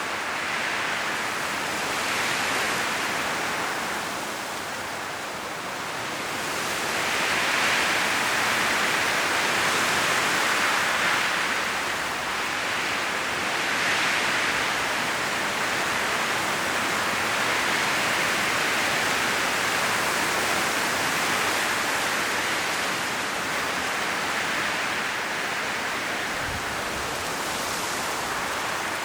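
High wind blowing through autumn forest trees, the leaves rustling in a continuous hiss that swells and eases in gusts every few seconds.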